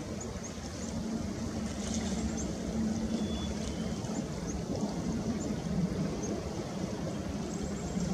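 Riverside ambience: flowing water and a steady low engine hum, with faint short high chirps repeating through it.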